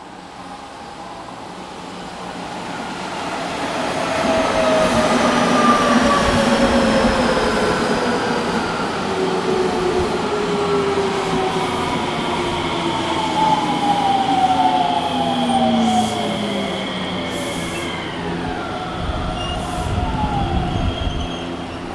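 Odakyu 2000 series electric train arriving and braking, its motor whine made of several tones that fall slowly in pitch as it slows, dropping more steeply just before it stops, over the rumble of wheels on rail.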